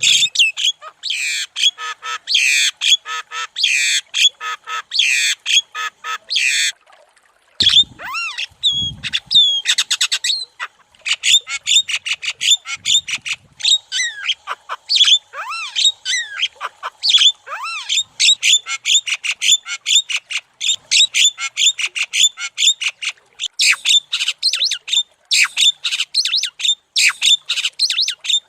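Javan myna singing continuously: a dense, rapid stream of harsh chattering and squawking notes, broken by a few gliding whistles, with a brief pause and some low thuds about eight seconds in.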